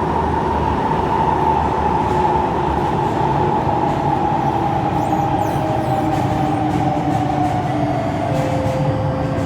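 Kawasaki C151 metro train running in a tunnel: steady low rumble of wheels on rail with the traction motors' whine slowly falling in pitch as the train slows on approach to a station.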